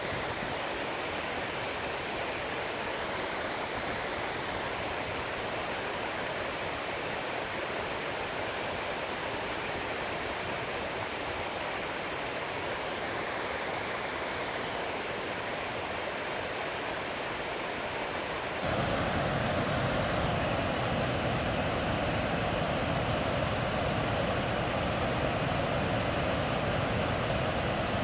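Waterfall rushing, a steady even roar of falling water. About two-thirds of the way through it suddenly becomes louder and deeper, and holds there.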